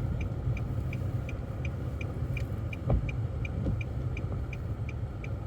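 A car's turn-signal indicator clicking steadily, about three ticks a second, over the low rumble of engine and road noise inside the cabin. A single knock comes about three seconds in.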